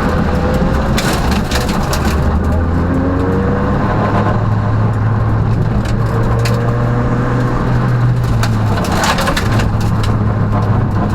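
Peugeot rally car heard from inside the cabin at speed, its engine pulling steadily under load. The pitch rises a little, then drops sharply about nine seconds in, as the driver lifts or shifts. Tyre and road noise runs underneath, with scattered sharp knocks and clatter in the shell.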